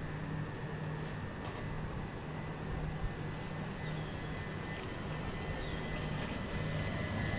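Electric multiple-unit train running at a station with a steady low hum and a thin, steady high whine over a background rush.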